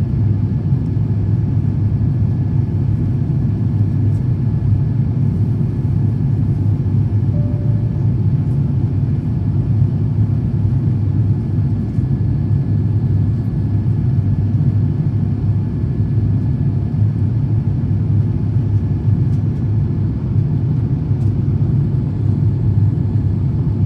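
Steady low rumble of an Airbus A350-1000 in flight, heard inside the cabin: its Rolls-Royce Trent XWB engines and the rush of air past the fuselage. A faint, steady high tone runs beneath it.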